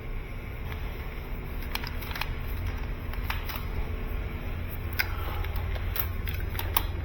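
Scattered light clicks and rattles of cable being worked and pulled through a plastic cable carrier (energy chain), over a steady low hum.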